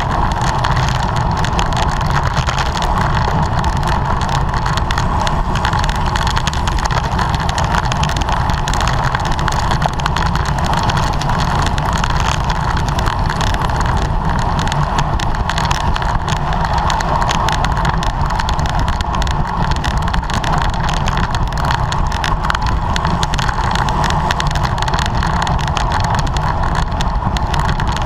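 Steady rush of wind and road noise from a racing bicycle at speed, loud and unbroken, buffeting the camera's microphone.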